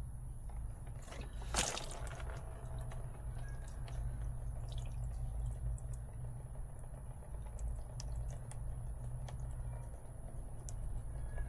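Liquid dripping, most likely engine oil draining during an oil change, with scattered small clicks and one loud clatter about one and a half seconds in, over a steady low hum.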